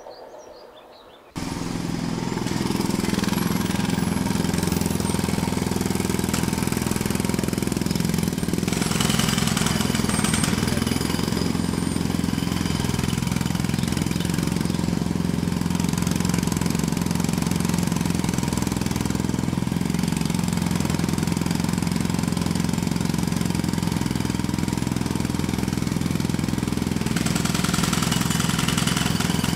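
An engine running steadily with a fast rattling beat, cutting in suddenly about a second in.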